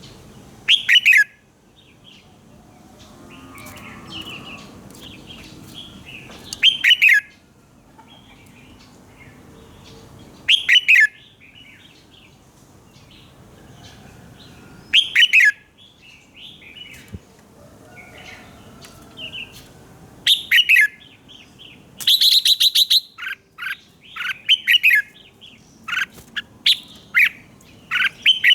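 Red-whiskered bulbul singing short, loud phrases of quick notes that fall in pitch. The phrases repeat every four to five seconds, then come thick and fast in the last third.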